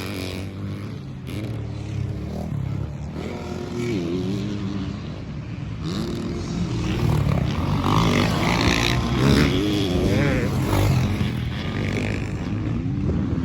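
Several motocross dirt bikes racing on the track, their engines revving up and dropping back over and over as the riders work the throttle through jumps and turns.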